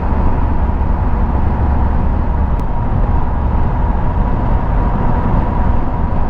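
Motorcycle riding at steady road speed: engine drone and wind rushing over the microphone, with a faint steady whine running through it.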